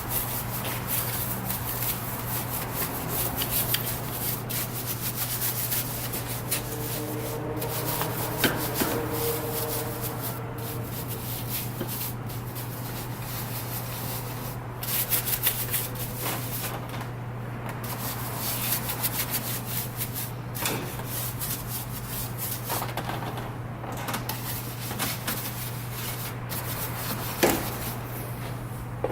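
Soft-bristled brush scrubbing wet engine-bay surfaces coated in all-purpose cleaner, in quick back-and-forth rasping strokes that stop briefly now and then.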